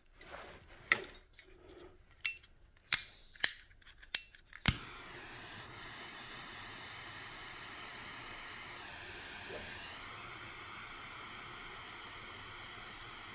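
Handheld gas torch: several sharp igniter clicks, then about five seconds in it lights with a click and burns with a steady hiss, heating a wire's terminal end.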